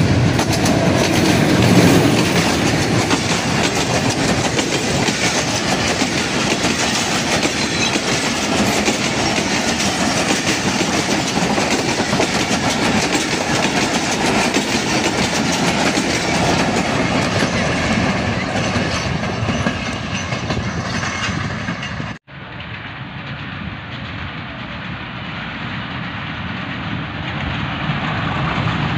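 Diesel-hauled passenger train passing close by: the locomotive and then a long line of coaches rolling past, with a dense run of wheel clicks. About three-quarters of the way through, the sound cuts abruptly to a quieter train approaching from a distance, which grows steadily louder.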